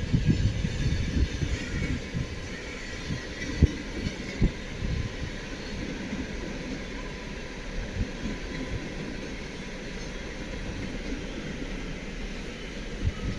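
A train rolling along station track: a low rumble with knocks, loudest in the first few seconds, including two sharp knocks about three and a half and four and a half seconds in, then settling to a steadier, quieter run.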